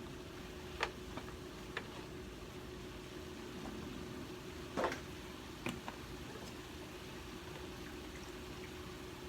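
A few light clicks and knocks of household items being handled, four or so, over a steady hum and hiss.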